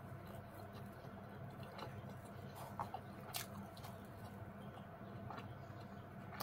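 Faint chewing and mouth sounds from eating fried bread with egg, with a few small sharp clicks spread irregularly, the clearest about three and a half seconds in, over a steady low hum.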